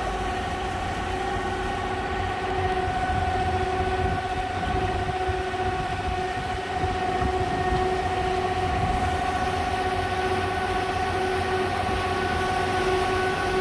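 Electric tour boat's motor running at a steady speed: a constant whine over a low rumble.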